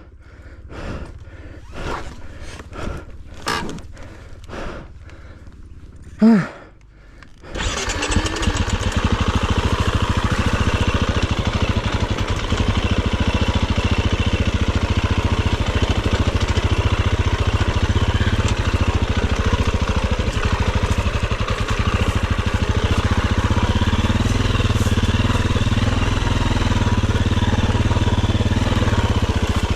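A string of separate knocks and clatter, then about seven seconds in a dirt bike engine starts and keeps running steadily and loudly.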